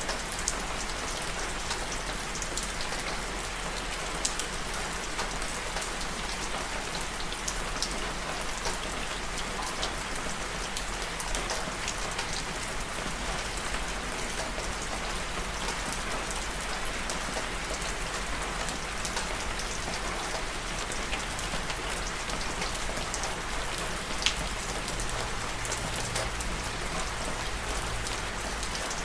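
Steady rain falling on a surface, an even hiss with individual drops ticking sharply here and there; one louder drop near the end.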